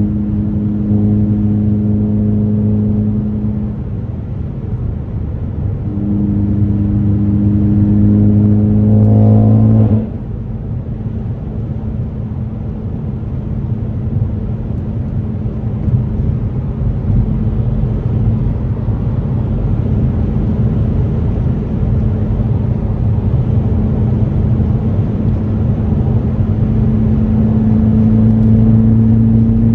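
2018 Ford Focus ST's turbocharged 2.0-litre four-cylinder with an AWE axle-back exhaust, pulling under load with revs climbing about nine seconds in, then dropping off suddenly as the throttle is let go. A long stretch of road and tyre noise follows with the engine low, and the engine comes back on load near the end.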